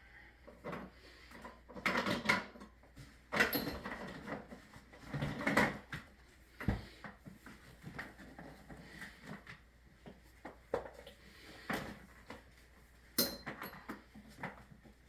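Irregular knocks, bumps and scrapes of hard objects being handled, heaviest in the first six seconds with a sharp knock near the end.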